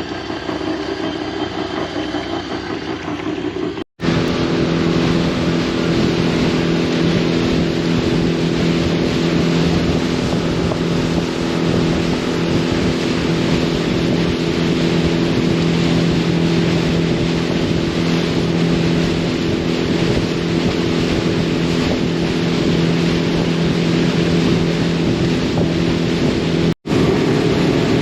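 Boat engine running steadily, an unchanging low drone with rushing wind over it. The sound drops out for an instant twice, about four seconds in and near the end.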